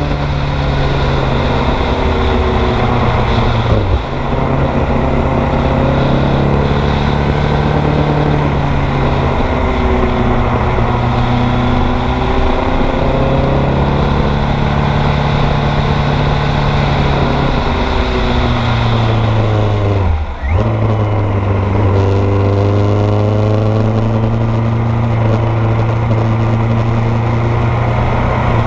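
1986 Kawasaki GPZ900R Ninja's 908 cc inline-four engine running under way, heard from on the bike, its pitch rising and falling slowly with speed. The engine note dips briefly about 4 seconds in and again about 20 seconds in.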